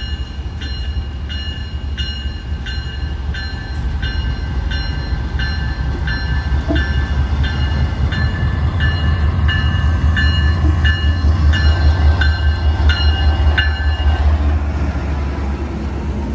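GE Dash 8 diesel locomotive working in a yard, its engine running with a low rumble that gets louder about ten seconds in as it takes power. Over it the locomotive bell rings steadily, about one and a half strokes a second, and stops about two seconds before the end.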